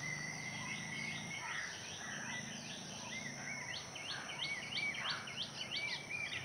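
Several birds chirping and calling, with many short rising and falling notes that come faster in the second half.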